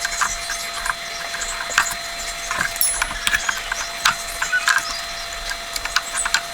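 Irregular light clicks and knocks of hand tools and parts being handled in engine repair work, over a faint steady whine.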